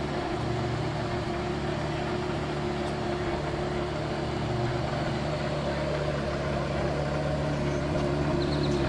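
Porsche Carrera GT's 5.7-litre V10 idling steadily.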